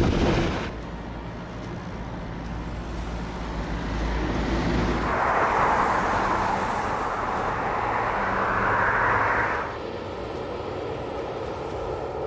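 Jet airliner engine noise from an Airbus A350-900: a steady rush with a low hum. It drops abruptly about a second in. A louder, higher rushing comes in about halfway through and cuts off sharply near the end.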